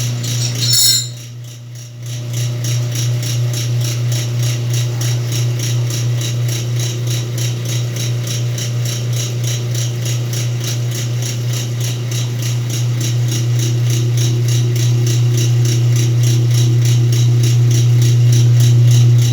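Whirlpool washing machine running a load of blankets: a steady motor hum with a fast, even pulsing. There is a brief drop about a second in, and it grows slightly louder toward the end.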